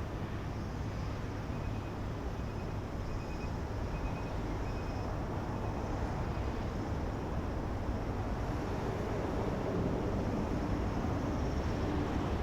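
Jet aircraft engines, a steady distant rumble that grows slightly louder toward the end.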